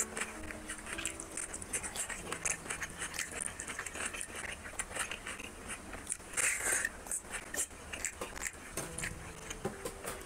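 Close-miked eating: wet chewing and biting of mouthfuls of rice and curry eaten by hand, with a steady run of small clicks and crackles and a louder bite about six seconds in.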